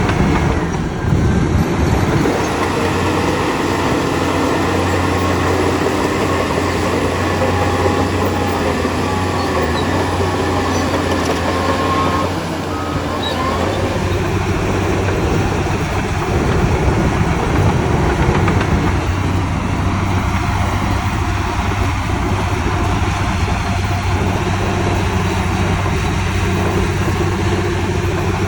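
Diesel engines of heavy earthmoving machinery running, with a steady low engine note and the clatter of the machines working.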